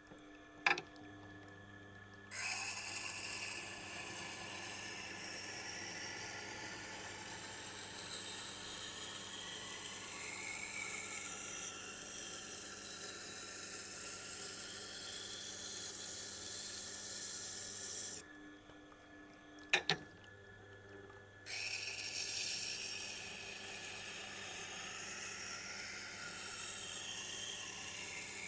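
Knife bevel being ground on the Tormek T8's water-cooled SG-250 grindstone: a steady wet hiss of steel on stone over the low hum of the grinder's motor, still short of raising a burr on the hard steel. The grinding breaks off for a few seconds about eighteen seconds in, with a click, then carries on.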